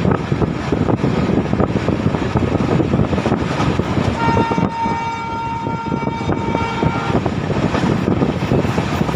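Passenger train running along the track, a steady rumble of wheels and coaches, with the hauling WAP-7 electric locomotive's horn sounding one long blast of about three seconds about four seconds in.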